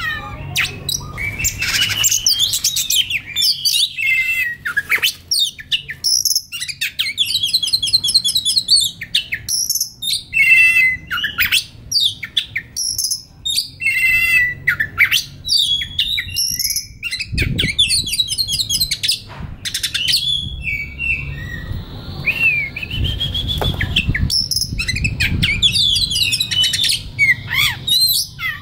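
Oriental magpie-robin singing a varied run of whistled phrases, fast trills and rapid repeated notes, with short pauses between phrases. A low rumble sounds beneath the song in the second half.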